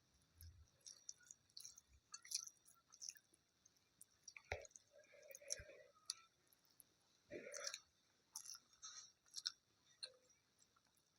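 Quiet, close-up eating sounds: chewing with scattered wet mouth clicks and smacks, a few of them louder.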